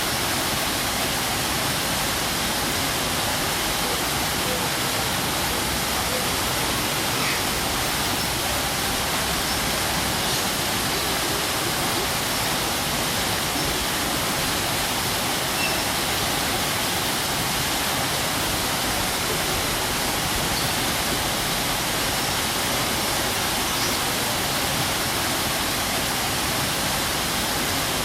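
Waterfall: water falling and rushing in an even, unbroken noise.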